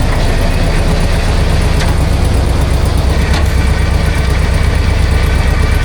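A 351 V8 running loudly and steadily with its throttle zip-tied open. The engine has a spun rod bearing.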